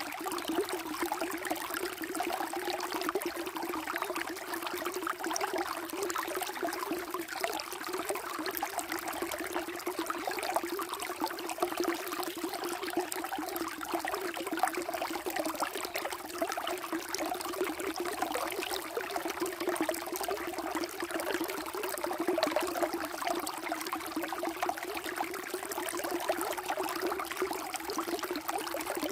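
Flowing stream water, running and trickling steadily.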